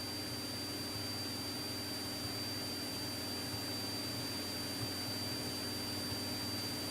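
Steady hiss with a thin, steady high whine and a low hum: the background noise of the police radio recording between transmissions.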